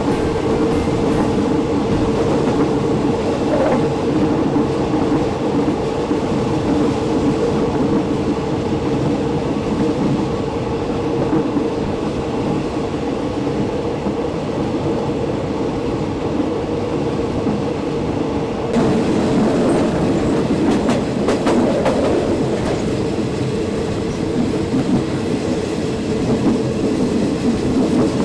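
Passenger train running along the track, heard from inside the carriage: a steady rumble of wheels on rail with a constant hum and clickety-clack from the rail joints. About two-thirds of the way through it turns louder and more clattering.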